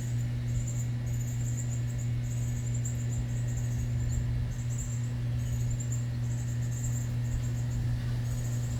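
Backyard birds chirping in short, high-pitched buzzy bursts that repeat irregularly, over a steady low hum.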